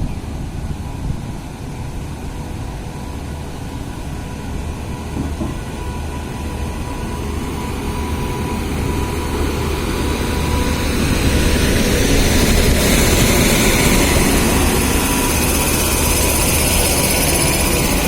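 Express passenger train pulling out of a station. A steady low rumble grows louder about halfway through, as wheel-on-rail noise and hiss build with the train gathering speed.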